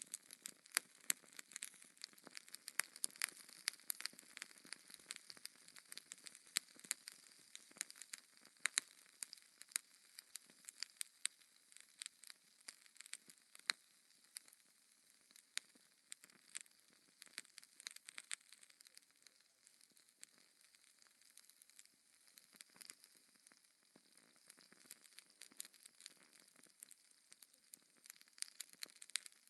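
Wood fire crackling in a fireplace: a steady stream of irregular sharp pops and snaps over a soft hiss, thinning out somewhat past the middle.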